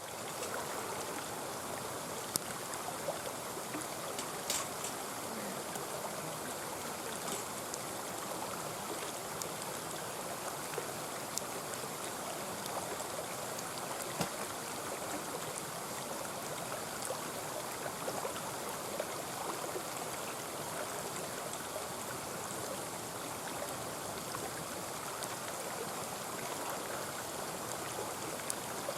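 Mountain stream flowing steadily, with a few sharp crackles from a wood campfire.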